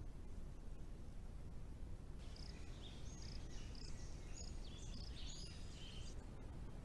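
Steady low rumbling noise from a trail camera's microphone, with birds chirping in short, high notes from about two seconds in until about a second before the end.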